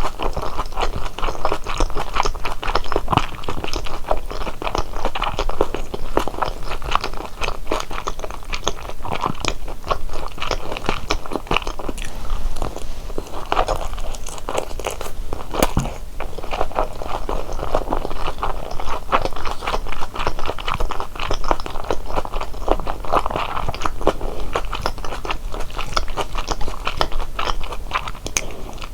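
Close-miked chewing and biting of large Korean steamed dumplings (wang mandu): a steady stream of wet, smacking mouth sounds and soft crunches.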